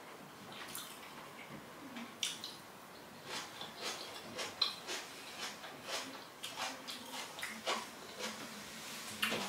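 Faint mouth noises of someone chewing a forkful of rice pilau, with a few small scattered clicks such as a fork touching the plate.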